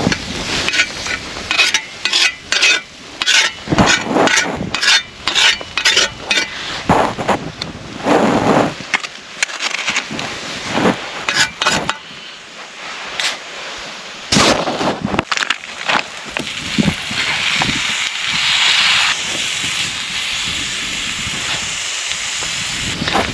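Sizzling and crackling from a pot or pan on a camp stove, with many sharp crackles and knocks, settling into a steadier hiss in the last few seconds.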